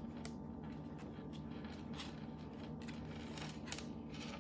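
Light clicks and taps of small gingerbread-kit pieces and candies being handled, with a sharp click just after the start and a few more near the middle and later. A steady low hum runs underneath.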